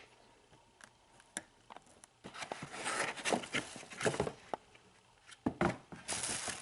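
Handling noise: scattered clicks and rustling, busiest in the middle, with an even hiss coming in near the end.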